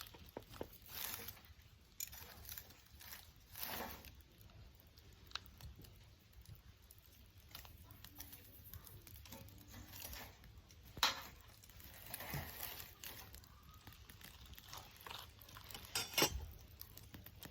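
Wood fire crackling: faint irregular snaps with a few sharper pops, the loudest about eleven seconds in and again about sixteen seconds in.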